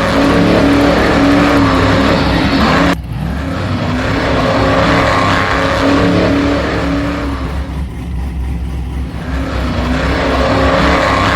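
Radio-controlled monster truck's motor and drivetrain running under throttle, pitch rising and falling as it drives. The sound changes abruptly about three seconds in and dips quieter for a moment near eight seconds.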